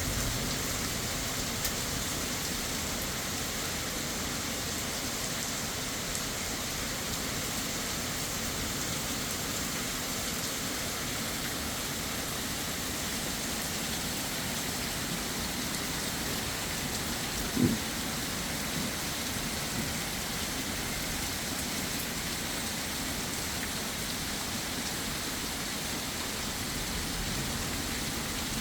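Heavy rain falling steadily, an even hiss with no let-up. About two-thirds of the way through comes one short, dull thump, the loudest moment.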